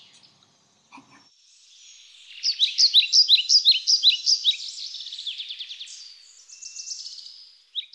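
Birdsong: a quick series of high chirping notes and trills, starting about two seconds in and fading away near the end.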